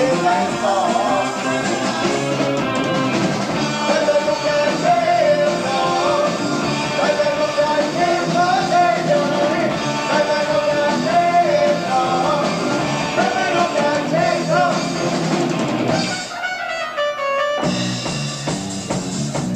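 Live progressive rock band on an amateur tape recording: drums, bass, guitar and keyboards, with a wavering lead melody on top. About sixteen seconds in, the bass and drums drop out briefly before the full band comes back in.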